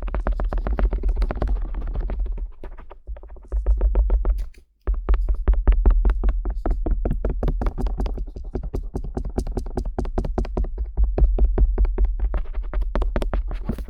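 Stainless-steel earpick scratching and tapping quickly over the outer ear of a binaural microphone: a dense run of fast scratches and clicks over deep rumbling thuds, with a brief break about four and a half seconds in.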